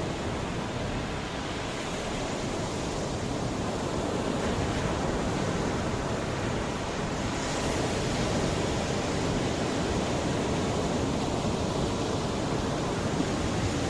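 Mediterranean sea waves washing onto the shore: a continuous rushing surf, swelling gently in loudness as the waves come in.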